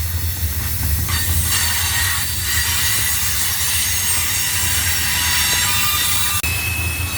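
Freight train rolling past, its wheels squealing with thin high-pitched tones over a steady low rumble.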